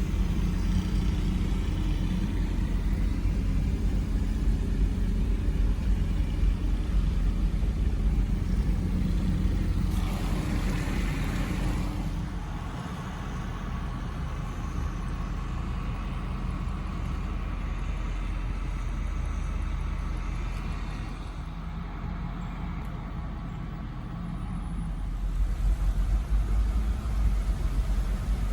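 Generator engine running steadily with a low hum, under a constant hiss of wind and heavy rain; the hiss swells briefly about ten seconds in.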